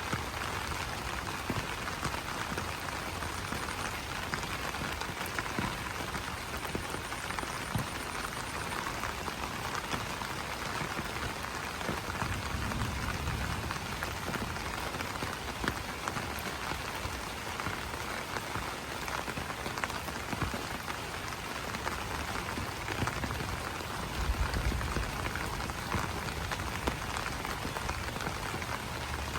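Steady rain falling on broad banana leaves: a dense, even patter of individual drops striking the leaves. A soft low rumble swells briefly twice, about halfway through and near the end.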